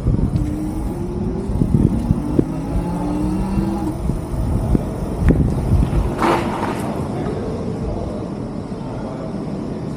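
Riding noise from an electric bike on the move: a steady low rumble of tyres and wind. A faint hum rises slightly in pitch during the first few seconds, and there is a brief brighter sound at about six seconds.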